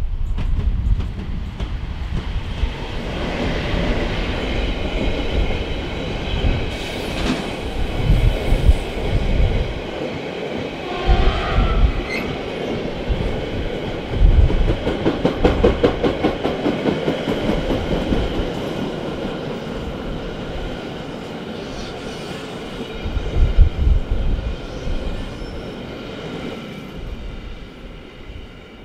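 Siemens Vectron electric freight locomotive passing close, followed by a long train of loaded two-tier car-carrier wagons rolling by. The wheels clatter over the rail joints, with steady high whining tones. Bursts of low rumble come and go, the loudest about two-thirds of the way through, and the sound fades near the end.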